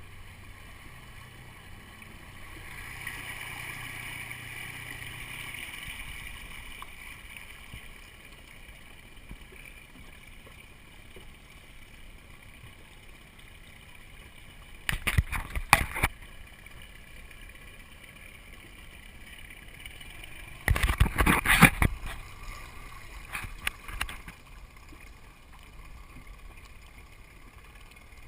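Water gurgling and sloshing along the hull of a small sailboat, steady, with two short louder bursts of noise about halfway through and again about three quarters of the way through.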